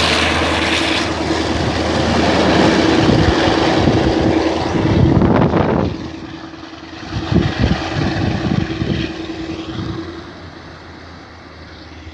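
TCDD DE 24000-class diesel-electric locomotive and its passenger coaches passing close by: engine hum and wheels rolling on the rails, loud at first and dropping sharply about six seconds in as the last coach goes past. After that, a few knocks and a fading hum as the train moves away.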